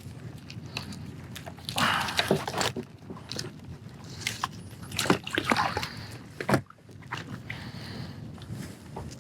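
Irregular splashes and sloshes of water beside a kayak, mixed with a few sharp knocks. The loudest bursts come about two seconds in and again around five to six and a half seconds.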